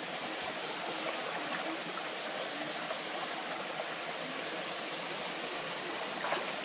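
Flowing water rushing steadily over rocks, an even unbroken rush.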